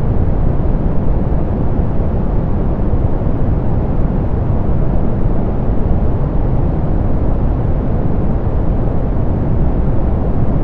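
Steady synthetic soft pink noise: an unbroken rushing hiss, heaviest in the low end with the highs rolled off, so it sounds deep and muffled rather than sharp.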